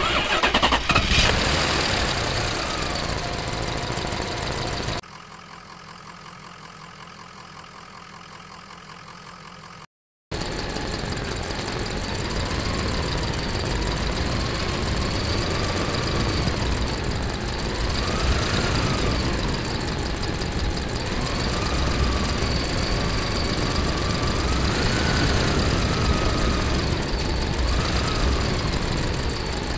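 Engine sound effect of a heavy vehicle running. It drops to a quieter stretch about five seconds in, cuts out briefly near ten seconds, then runs on with its pitch rising and falling several times.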